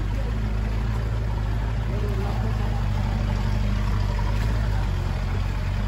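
Land Rover 4x4's engine running steadily with an even low hum.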